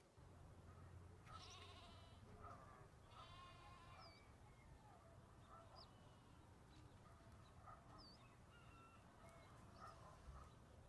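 Bleating livestock: two wavering bleats, the first about a second in and the second about three seconds in. Faint short bird chirps follow now and then.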